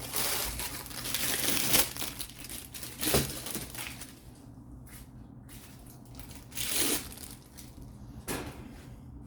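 A tack cloth being opened out and handled, crinkling and crackling. It goes on through the first two seconds, then comes in shorter bursts about three, seven and eight seconds in, quieter between them.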